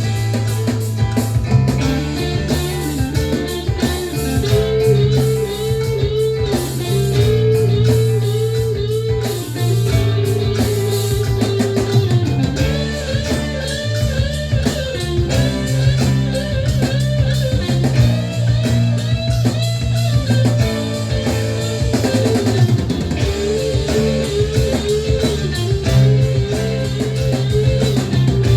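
Instrumental rock music: an electric guitar plays a bending, wavering lead line over bass guitar and drum kit.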